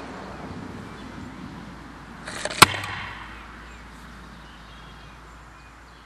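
Homemade airsoft mortar firing: a gas grenade shell goes off on the firing pin with a short hiss and one sharp, loud pop about two and a half seconds in, launching practice golf balls.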